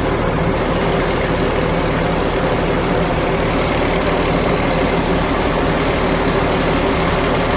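Large truck's engine idling steadily.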